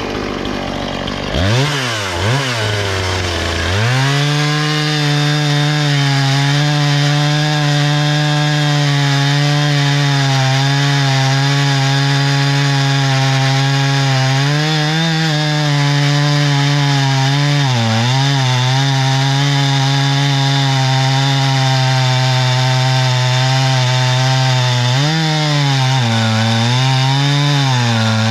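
Husqvarna 460 Rancher two-stroke chainsaw held at full throttle while cutting through poplar. Its pitch sags several times as the chain bites into the wood under load.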